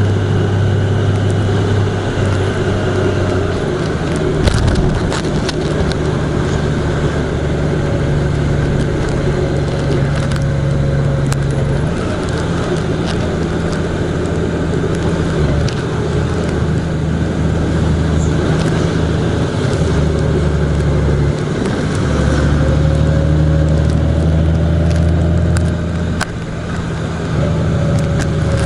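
Vehicle engine running under way, its low drone shifting between a lower and a higher pitch several times as speed and load change, over steady road and wind noise.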